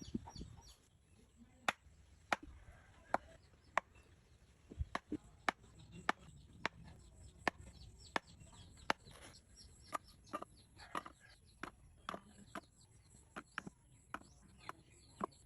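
An irregular series of short, sharp clicks, about one or two a second.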